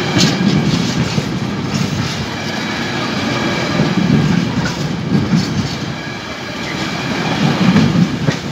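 Empty freight wagons rolling past on a departing train, their wheels running over the track in a continuous rumble that swells each time a set of wheels goes by.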